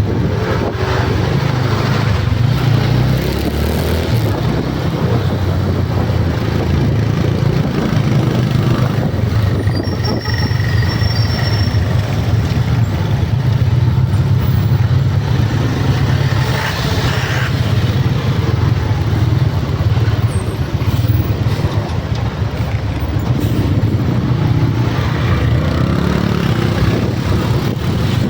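Steady loud low rumble of motor vehicle engines and road noise, with no clear single event standing out.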